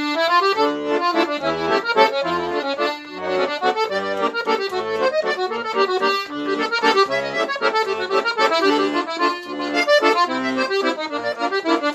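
Guerrini & Sons piano accordion playing a tune on its concertina treble register, two middle-reed sets sounding together, with a quick right-hand melody over a regular beat of left-hand bass notes and chords.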